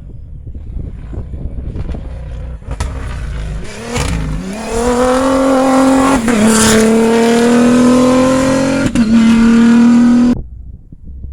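Rally raid car engine at full throttle: after a low rumble, the engine note climbs about four seconds in and holds high and steady, with two quick gear shifts, then cuts off suddenly near the end.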